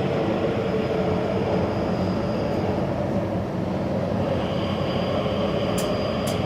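Taipei Metro Zhonghe–Xinlu line train running, with a steady rumble of wheels on the track. A faint high whine comes in about four seconds in, and there are two short clicks near the end.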